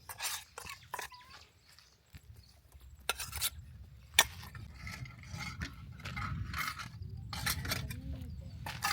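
Pots, dishes and utensils clinking and knocking in irregular strokes, with one sharp knock about four seconds in.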